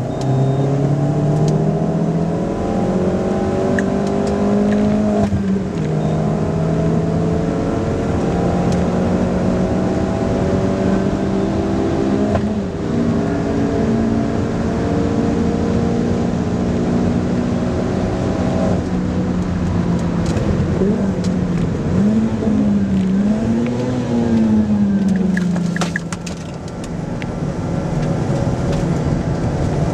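Opel Corsa OPC's 1.6-litre turbocharged four-cylinder engine under hard acceleration, heard from inside the cabin: its pitch climbs and drops back at two upshifts, then holds high. Near the end the pitch swings down and up several times as the revs change.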